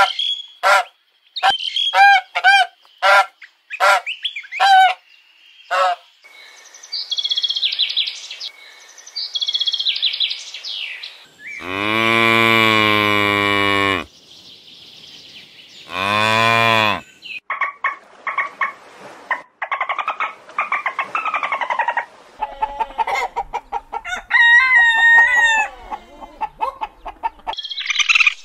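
Canada geese honking in short calls about once a second, then higher bird calls. Then cattle mooing: one long, low moo and a shorter second one. A jumble of assorted bird calls follows.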